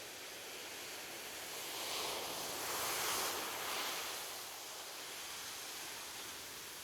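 Ocean surf: a steady hiss of waves that swells into a louder wash between about two and four seconds in, then falls back.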